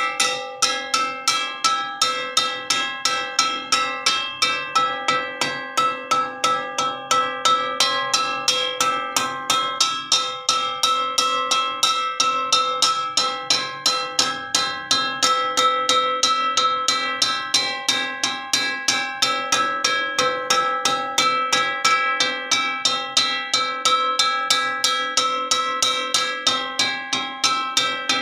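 Metal wok (wajan) struck repeatedly, about three strikes a second at an even pace, each hit leaving a ringing metallic tone with several overtones.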